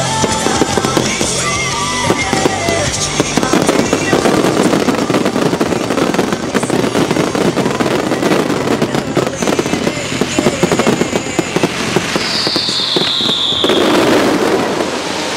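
A fireworks display going off continuously: rapid bangs and crackling of aerial shells, over steady background music. A high falling whistle sounds near the end.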